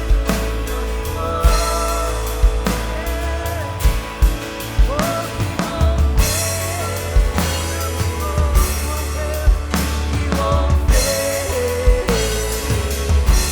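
Live worship band playing an instrumental passage: drum kit keeping a steady beat with kick and snare, bass guitar underneath, and a held, sliding lead melody over the top.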